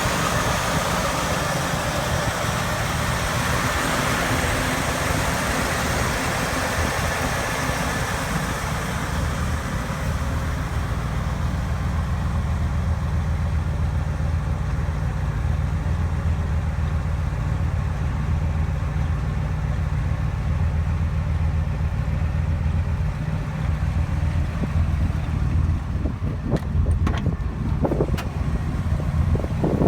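Car engine idling steadily with a low rumble. A few sharp clicks come near the end.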